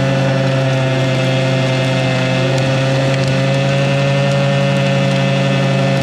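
Suzuki LT80 quad's small two-stroke single-cylinder engine held flat out at its rev limiter, running at one steady high pitch.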